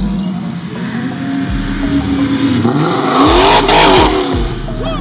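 Muscle car engine revving, its pitch rising and falling several times, loudest a little past halfway through.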